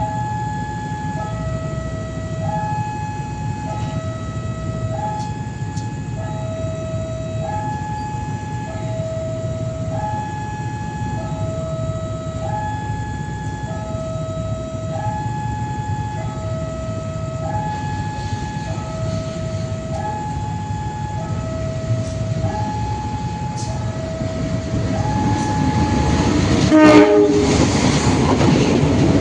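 Railway level crossing alarm sounding a steady high-low two-tone warning, changing tone about once a second, as a train approaches: the train's rumble builds from about two-thirds of the way in, and a short, loud horn blast sounds near the end.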